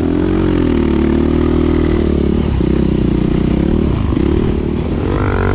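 2021 Beta 500 RRS single-cylinder four-stroke dirt bike running hard in sand with an open exhaust that has no spark arrestor. The revs rise and fall repeatedly, then climb once more near the end before dropping away.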